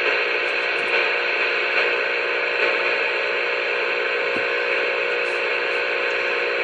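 Steady hiss of radio static, the narrow-band rush of an open two-way radio channel with no voice on it, under a faint steady hum.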